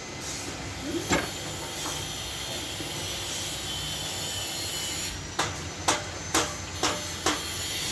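Sawmill machinery running with a steady hum, and sharp knocks of wood or metal: one about a second in and a run of six, about two a second, near the end.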